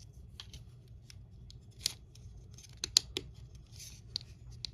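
Scattered sharp clicks and small taps of small plastic model parts being handled and fitted on a work surface, over a steady low hum.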